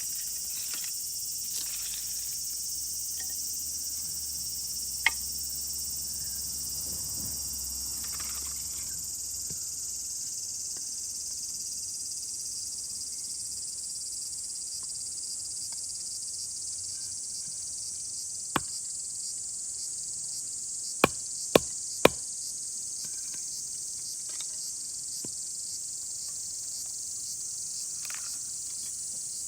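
Insects buzzing steadily and high-pitched in the forest. Sharp single knocks stand out: one about five seconds in, another later, then three in quick succession.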